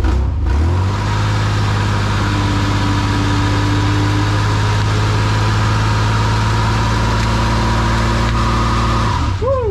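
1990s pickup truck's engine revving up and held at high revs while its tires spin in a burnout, with a steady hiss over the engine. It drops off about a second before the end.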